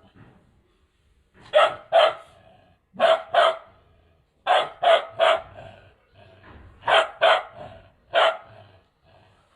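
Two-month-old Bhote Kukur (Himalayan sheepdog) puppy barking: about ten short, sharp barks, mostly in pairs with a trio in the middle, separated by pauses of about a second.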